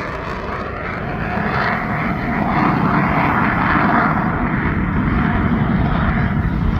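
Jet noise from a US Navy F/A-18F Super Hornet's twin turbofans in flight. The noise grows louder over the first few seconds, then holds steady.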